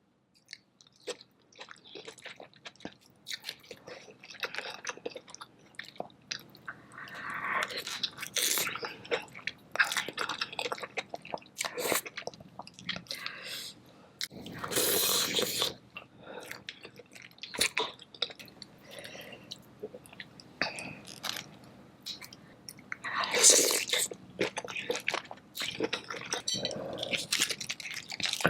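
Close-miked eating sounds of seafood boil: wet chewing, lip smacking and biting, with crunches and several louder bursts scattered through.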